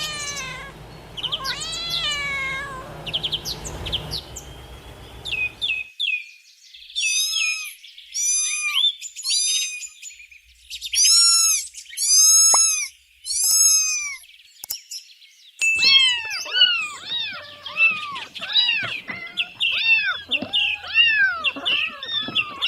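Cats meowing in a string of separate recordings: high-pitched mews repeated in short groups, then several cats mewing over one another near the end.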